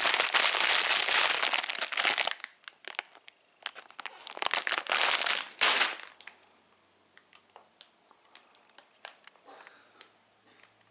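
Candy packaging crinkling as it is handled, in two long bursts, followed by a few faint clicks.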